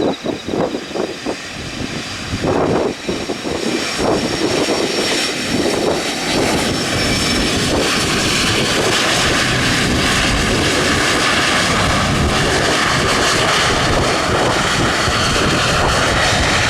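Boeing 767 twin jet engines growing louder as the airliner comes in to land, with a thin high fan whine over the roar, then a loud steady rush. Wind buffets the microphone in the first few seconds.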